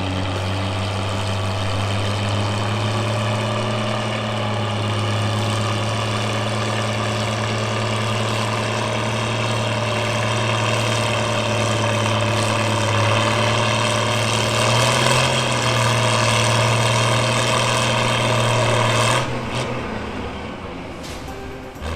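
Tractor engine running hard under load during a pull, a steady heavy note that rises a little about two-thirds of the way through, then is throttled back and fades near the end as the pull finishes.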